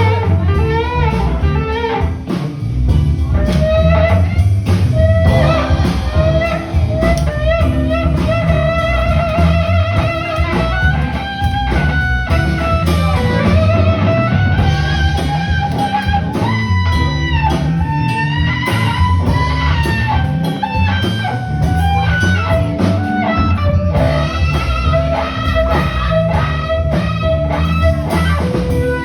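A live band playing a blues-style number: an electric guitar lead line with bent notes and vibrato over drums.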